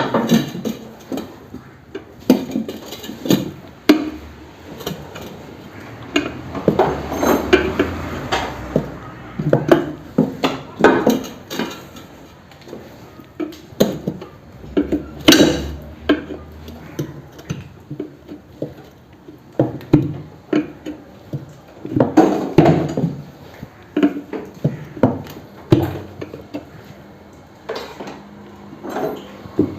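Irregular metal clanks and knocks as a tubeless motorcycle tyre is worked onto its wheel rim by hand, the loudest about halfway through.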